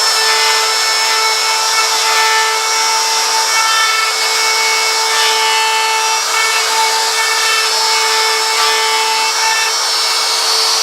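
Small high-speed power tool running at a steady high pitch while it cuts into wood, with a rough cutting hiss under the whine, as it carves a wide line around the lettering of a wooden sign.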